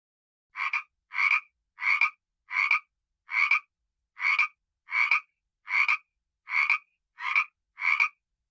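A frog croaking: eleven short croaks at a steady pace of about one and a half a second.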